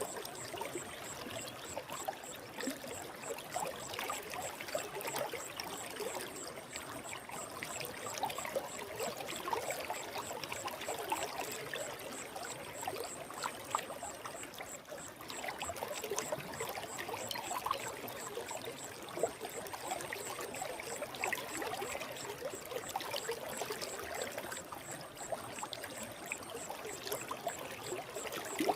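Forest stream running: a steady trickling babble of water with many small gurgles.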